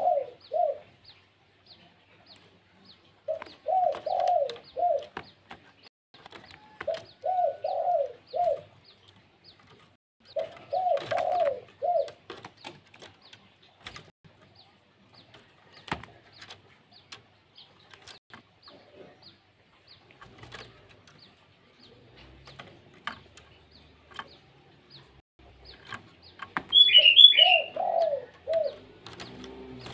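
Bird calls: a phrase of three or four low, mellow arched notes repeated every three to four seconds, with faint rapid chirps throughout and a brief, louder, higher-pitched call near the end.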